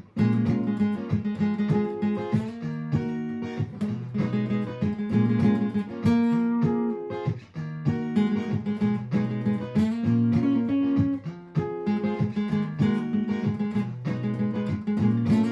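Martin GPCPA4 acoustic-electric guitar playing through a looper pedal: a strummed chord loop repeats underneath while single-note lines are picked over it.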